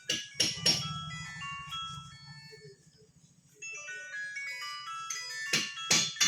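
A mobile phone ringtone playing a short electronic melody in two phrases, with a few sharp metallic clinks near the start and near the end and a low steady hum underneath.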